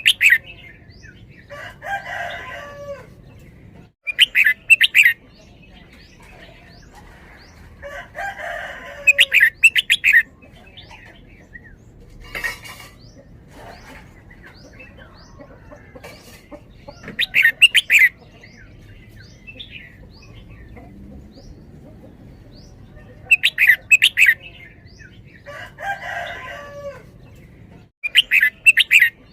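Red-whiskered bulbul singing: short, loud phrases of quick sharp notes, repeated every four to seven seconds. Between them come quieter, lower, longer calls from another bird.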